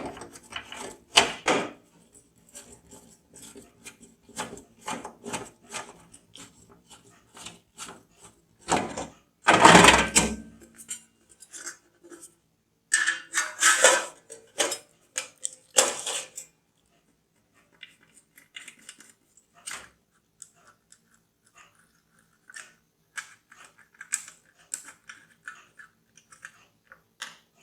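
Hands handling PC components during assembly: scattered small clicks, taps and rubbing noises, with a louder scraping rustle about nine seconds in and another cluster of knocks a few seconds later.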